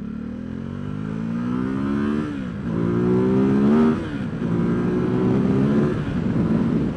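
2017 Ducati SuperSport's 937 cc L-twin engine under hard acceleration: the revs climb steadily, drop sharply with a quick upshift about two seconds in and again about four seconds in, then climb once more.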